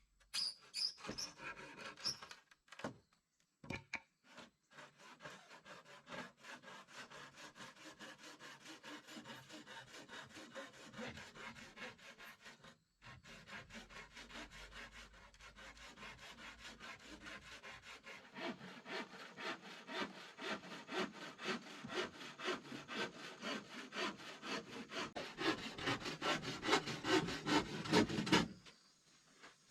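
Hand saw cutting through wood in quick, steady back-and-forth strokes, pausing briefly twice, getting louder partway through and stopping abruptly near the end.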